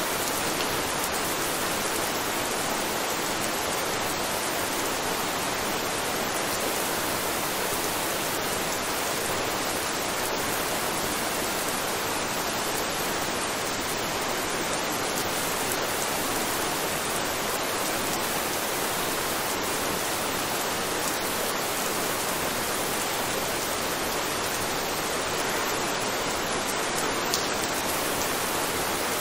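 Steady rain, an even hiss of falling rain that does not change, with one brief tick near the end.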